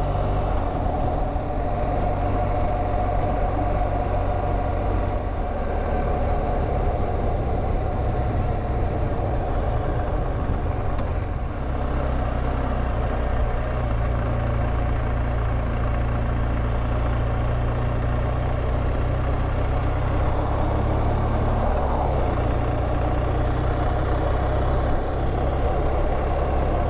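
BMW R1200GS Adventure's boxer-twin engine running steadily under way, its pitch stepping to a new level a couple of times.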